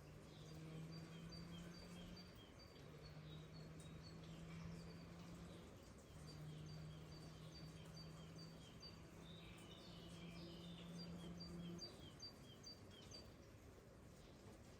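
Faint outdoor ambience: a small creature's short high chirps repeating about three times a second, over a low steady hum that comes and goes in stretches of a few seconds.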